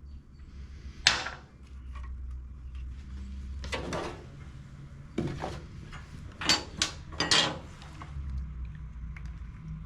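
Pieces of a broken connecting rod being taken out of a Toro push-mower engine and handled: about six sharp clinks and knocks of loose parts, most of them bunched in the second half.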